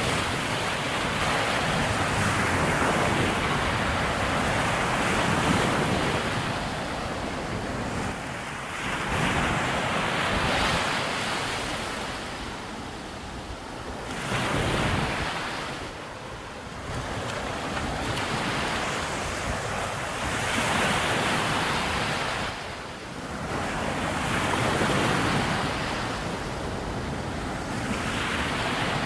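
Heavy surf breaking on a sandy beach in strong wind, each wave swelling to a rushing wash and ebbing again every few seconds, with wind buffeting the microphone.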